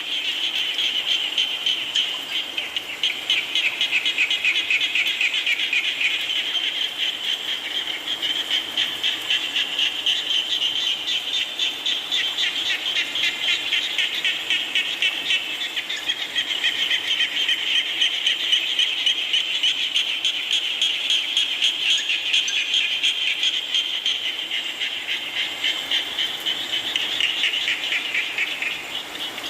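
Chorus of frogs calling together in a dense, fast-pulsing trill that swells and eases slightly without stopping.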